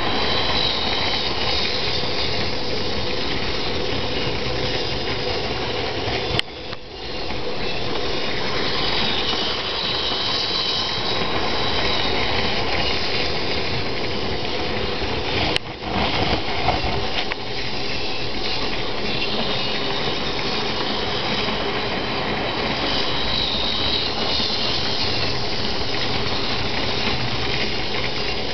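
HO-scale model train locomotive running along the track pulling a string of cars: a steady electric motor whine over the rattle of wheels on rail. The sound drops out briefly twice, about six and fifteen seconds in.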